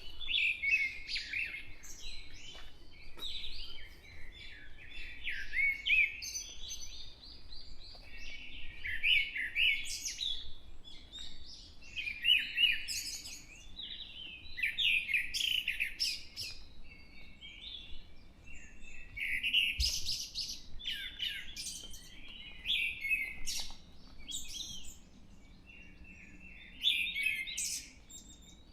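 Several songbirds singing and calling over one another in a dawn chorus: high, quick phrases that overlap and follow each other with short gaps.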